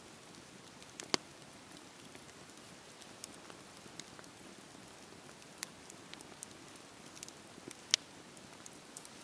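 Wood fire crackling in a fireplace: a soft steady hiss with scattered sharp pops and snaps, the loudest about a second in and near the end.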